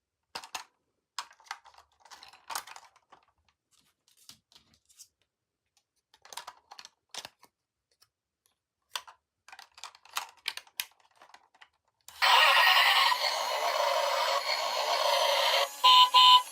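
Light clicks, scrapes and rattles of plastic toys and packaging being handled, in scattered bursts. About twelve seconds in, loud music starts abruptly, tinny with no bass.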